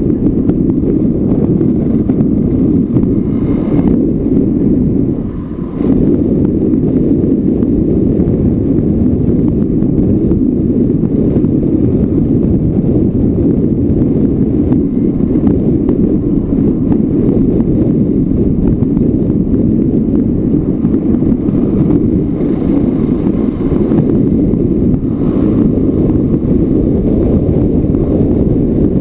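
Wind rushing over the microphone of a Yamaha Lanza off-road motorcycle riding a stony gravel forest road, heard as a steady low rumble that dips briefly about five seconds in.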